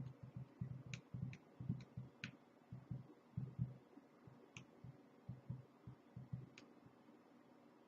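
Faint typing at a computer desk: irregular soft thumps with a few sharp key clicks, several a second, dying away about seven seconds in.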